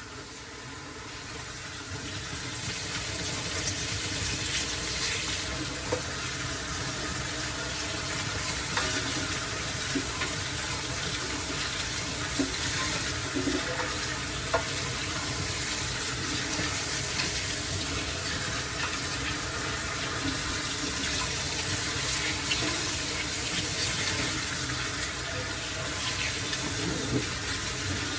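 Water running in a steady stream, swelling over the first few seconds and then holding, with a few light knocks.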